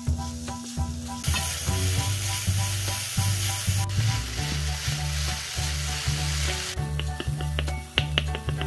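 Crumbled tofu sizzling steadily in a hot coated stainless-steel wok as it is stir-fried with a wooden spatula, its moisture cooking off as steam. Near the end the sizzle gives way to a run of light clicks of the spatula against the pan, over background music.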